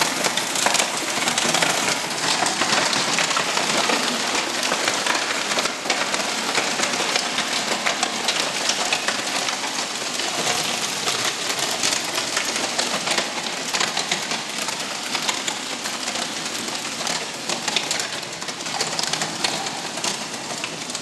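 Hailstorm: hailstones pelting down in a dense, continuous clatter of countless small hits.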